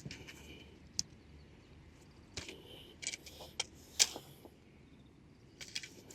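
Scattered light clicks and knocks at irregular intervals over a low hiss, the sharpest about four seconds in, a few leaving a short high ring.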